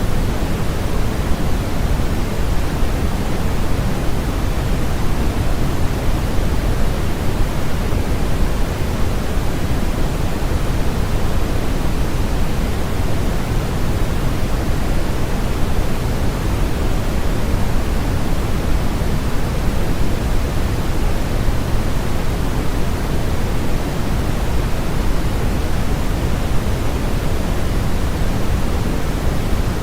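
Steady generated noise for sound masking: an even, unbroken hiss with most of its weight in the low end, deeper than a bright white-noise hiss.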